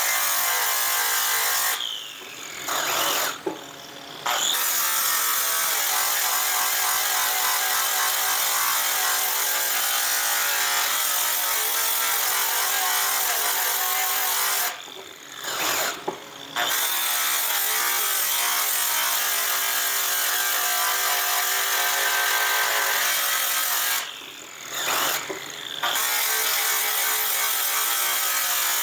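Electric power tool running steadily while polishing metal. It stops briefly three times, winding down in pitch and then starting up again.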